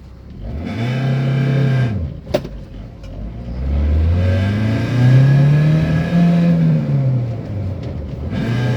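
Van engine revved through its exhaust, twice: a quick blip that rises, holds and drops, then a slower rev that climbs, holds and falls away. A sharp click comes between them.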